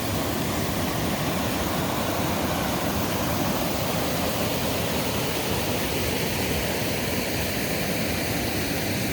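Steady rush of river water flowing over a small waterfall.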